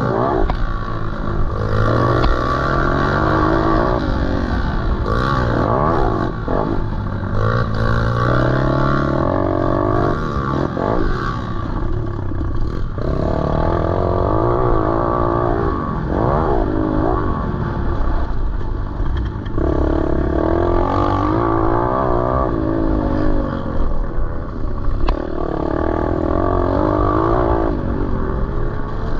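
Pit bike engine being ridden hard off-road, its revs climbing and falling again and again as the rider opens and closes the throttle and shifts gears, with some clattering from the bike.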